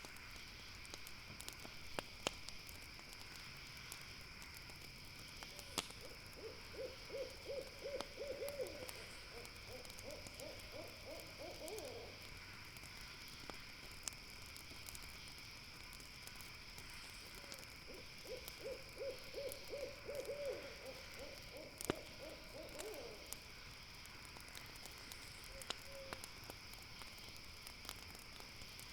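An owl giving two long trilled calls, each a rapid run of notes lasting about six seconds, over a steady high insect chirring. A few sharp pops and crackles from a campfire break in now and then.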